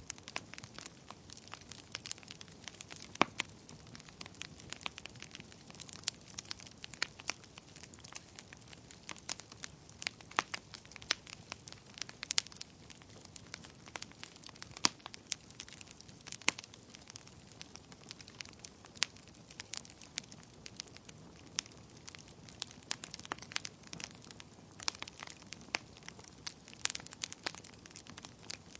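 Wood fire burning in a fireplace, with irregular sharp crackles and pops over a low steady hiss.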